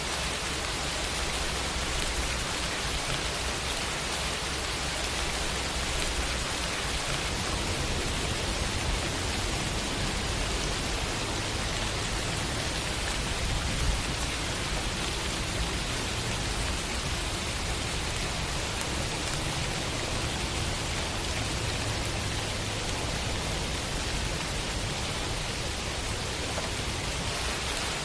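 Steady city rain falling, an even hiss with a low rumble underneath. One brief louder tap about halfway through.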